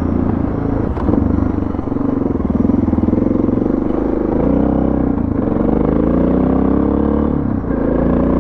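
Suzuki DR650's single-cylinder four-stroke engine running under load on a dirt road. Its pitch rises and falls with throttle and gear changes, with brief dips about four, five and seven and a half seconds in, and a single sharp knock about a second in.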